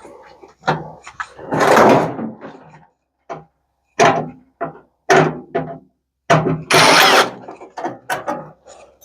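Parts of a microwave being handled and pulled apart by hand: a string of knocks and clatters, with two longer noisy stretches about two seconds in and about seven seconds in.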